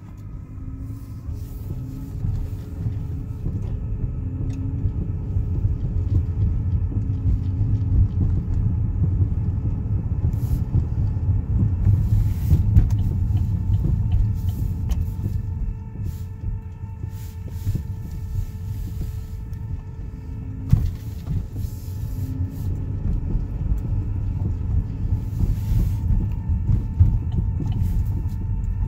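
2013 Buick Verano running, with a low rumble under a steady high whine of several tones held throughout. The whine is the noise being complained of.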